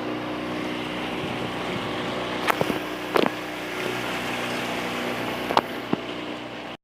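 Boat motor running steadily, with a few sharp knocks about halfway through and again near the end.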